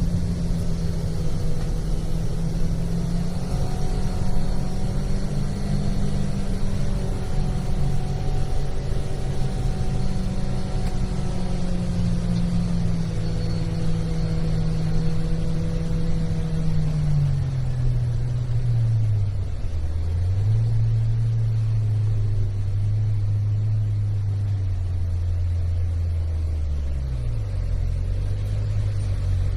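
Kawasaki Ridge side-by-side engine running, heard from inside the closed cab. Its note is steady at first, drops in pitch about two-thirds of the way through, and dips briefly twice near the end.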